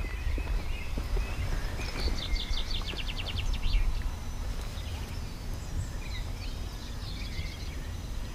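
Songbirds singing: chirps, then a fast trill of evenly repeated notes about two seconds in, and more chirps near the end, over a steady low rumble.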